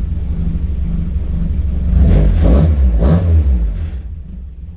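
Mk2 Ford Escort engine heard through an exhaust quietened by a dB killer in an angled tailpipe. It idles, is revved up twice about halfway through, then settles back to idle near the end.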